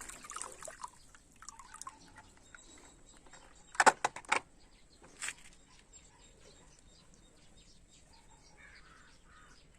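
Plastic toys being handled: a few sharp clicks and taps around four and five seconds in, with faint scattered ticking in between.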